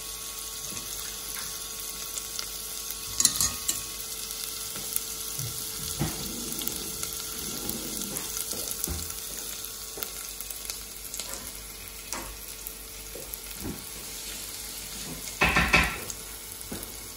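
Ginger, garlic and chilies gently sizzling in toasted sesame oil in a stainless saucepan on an induction hob: a steady hiss with small crackles. Two brief louder noises cut in, one about three seconds in and another near the end.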